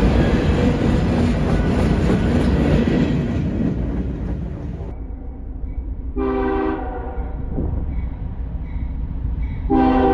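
Freight train rolling past with steady wheel-on-rail rumble that dies away about five seconds in. Then a CSX diesel locomotive's multi-note air horn sounds a short blast, and a longer blast begins near the end.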